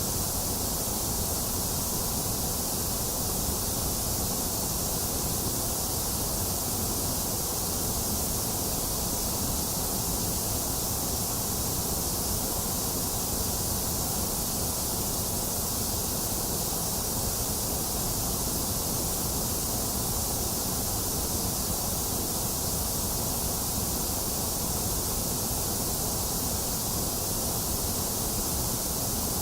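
Steady white noise: a continuous, unchanging hiss, strongest in the high end.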